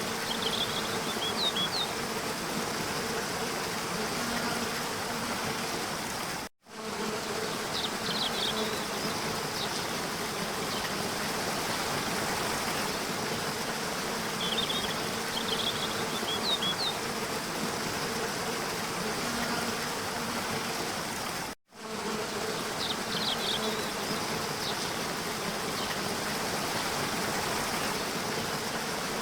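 Waterfall water rushing steadily, with short clusters of high bird chirps recurring every fifteen seconds or so. The sound drops out for an instant twice, where a looped recording joins.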